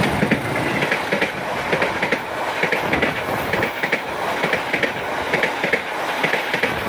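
Passenger train coaches passing at high speed right beside the track, loud, with the wheels clacking over the rails in a quick uneven rhythm over a rushing noise.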